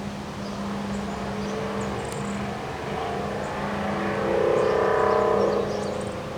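Steady wind noise with a motor vehicle passing: its engine note swells to its loudest about four to five and a half seconds in, then fades.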